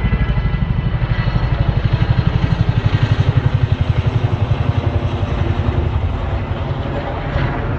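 Chinook helicopter's tandem rotors beating in a rapid steady rhythm of about a dozen beats a second, growing louder toward the middle and easing off near the end.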